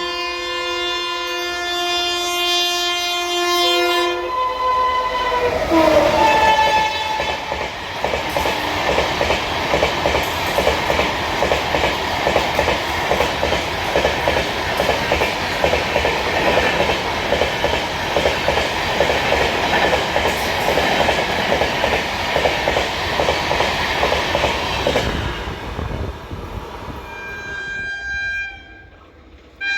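An express train passing through at speed: the locomotive's horn sounds a steady multi-note blast for about four seconds and drops in pitch as it goes by, then the coaches' wheels clatter rapidly over the rail joints for about seventeen seconds before the noise fades away. A faint horn sounds again near the end.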